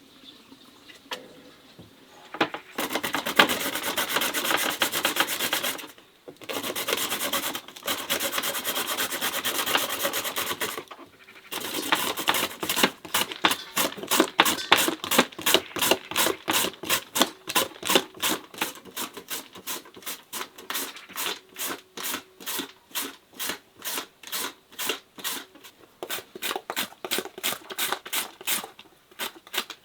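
Something scraped or rubbed by hand in rasping strokes. At first the scraping runs on continuously, broken twice by short pauses. From about a third of the way in it settles into separate, even strokes at roughly three a second.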